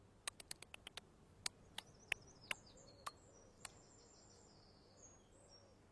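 Faint sharp clicks, about a dozen, quick at first and then spaced out over the first four seconds, with faint high bird-like chirps.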